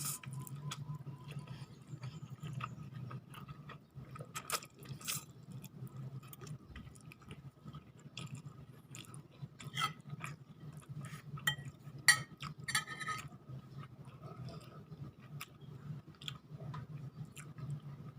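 Close-up eating sounds: a person chewing jajangmyeon noodles and chicken, with scattered sharp clicks and taps, the sharpest about twelve seconds in, over a steady low hum.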